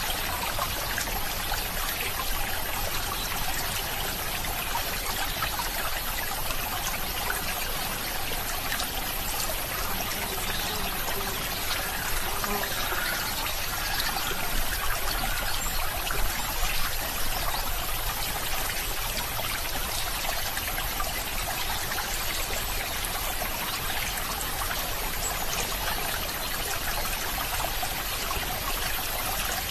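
Running water trickling and splashing steadily, as in a small stream, a little louder for a few seconds around the middle.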